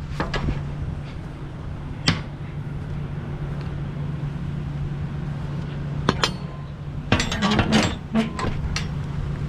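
Semi truck's diesel engine idling with a steady low hum, under scattered sharp metal clanks and clinks that come thickest in a run about seven to nine seconds in, as the trailer's tandem slider is being worked.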